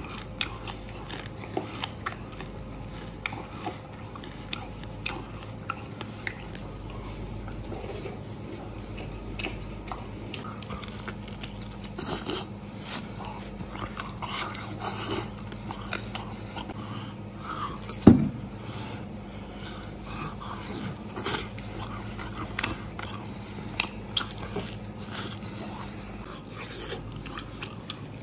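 Close-up biting and chewing of crispy-skinned roast pork hock: wet mouth sounds with many small crunches and clicks. There is one sharp loud knock about two-thirds through, over a low steady hum.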